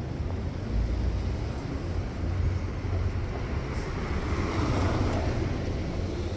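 City street traffic: a steady low rumble of engines and tyres, with one vehicle swelling past about four to five seconds in.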